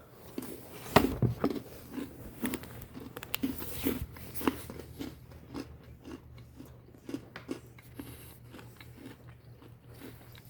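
Cinnamon churro pretzels bitten and chewed: a loud crunch about a second in, then steady crunchy chewing, about two chews a second, growing a little fainter near the end.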